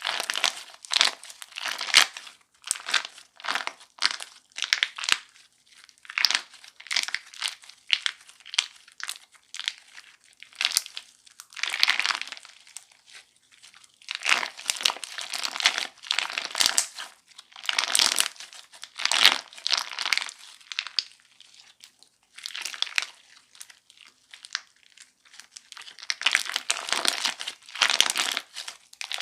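Crunchy slime squeezed and kneaded by hand, giving irregular bursts of crackling crunches with short pauses between them.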